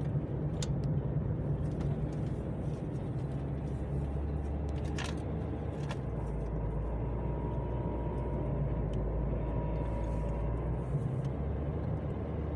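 Steady low road and engine noise of a car driving, heard from inside the cabin, with a few faint clicks.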